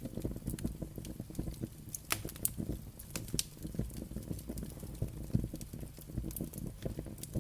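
Wood fire crackling in a fireplace: a dense, irregular low crackle with several sharp pops, the clearest between about two and three and a half seconds in.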